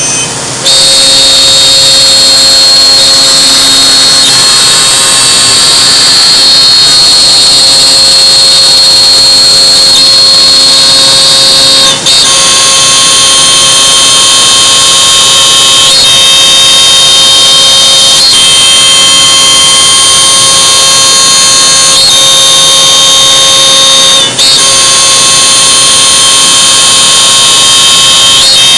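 Laguna CNC router's spindle running at high speed: a loud, steady, high-pitched whine made of several tones, dipping briefly twice.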